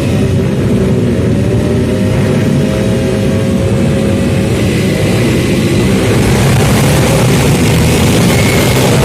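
Motocross dirt-bike engines running loud and steady, with a slow rise in engine pitch in the first few seconds. A broader rushing noise builds in the second half.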